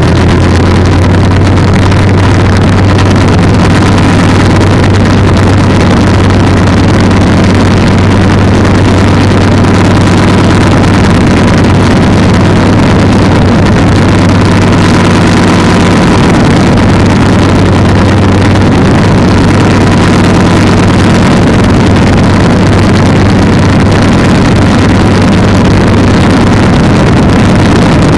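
Polini 190 single-cylinder two-stroke engine on an ultralight trike running loud and steady, with an even drone that does not change speed.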